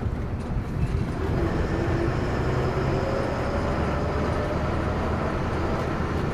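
Steady low rumble of a truck's engine and road noise while the truck is moving.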